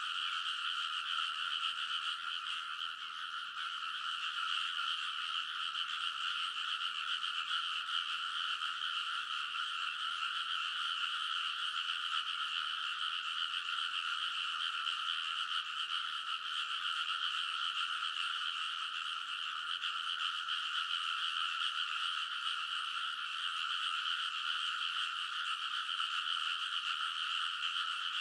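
A large chorus of frogs croaking in a rice paddy: a dense, unbroken din of many overlapping calls, steady in level.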